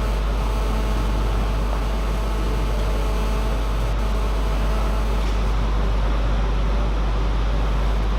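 A steady low hum under a constant, even background noise, with one faint click about four seconds in.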